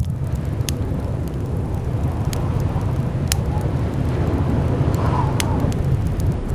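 Blizzard wind heard from indoors: a steady deep rumble, with a faint howling whistle that rises about five seconds in, and scattered sharp crackles.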